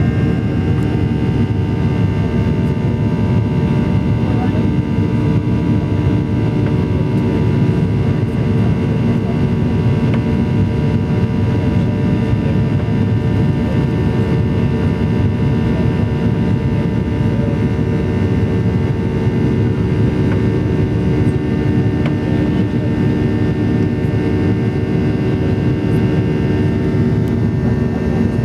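Steady, loud drone in the cabin of a Boeing 737-800 in flight, from its twin CFM56 turbofan engines and the airflow. It is a dense rumble with several steady tones above it, unchanging throughout.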